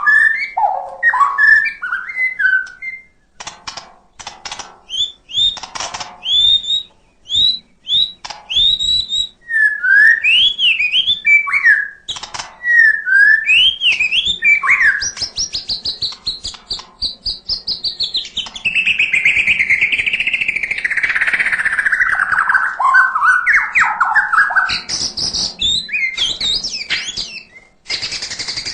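White-rumped shama (murai batu) singing a long, varied song: clear whistled notes sliding up and down, quick chattering phrases, and a long unbroken warble in the middle, with imitations of other sounds woven in.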